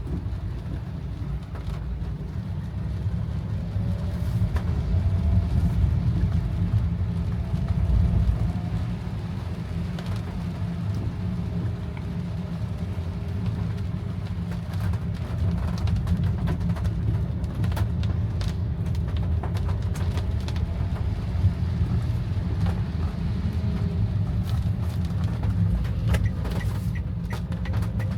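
Steady low rumble of a car driving in the rain, heard from inside the cabin, with a faint engine tone gliding up and down. Scattered sharp ticks come in the second half.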